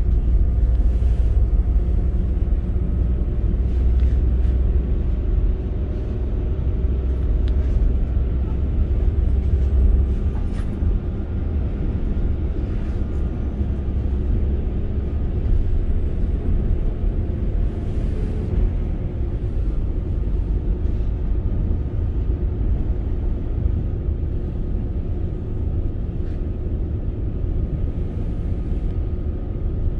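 Northern Class 195 diesel multiple unit running at speed, heard from inside the passenger saloon: a steady low rumble of the underfloor engine and the wheels on the rails. The low rumble eases slightly about ten seconds in.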